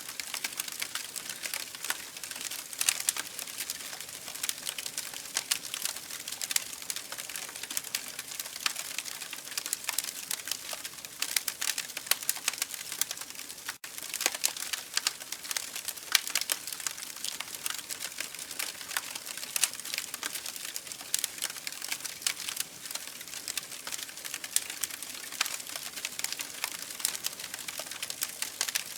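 Campfire crackling: a dense, continuous stream of small sharp crackles and pops over a steady hiss, with a momentary dropout about halfway through.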